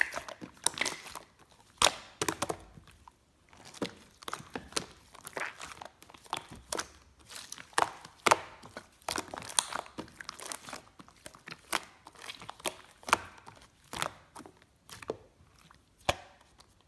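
Slime being squished, stretched and pressed by hand, giving irregular sharp clicks and crackles, a few a second.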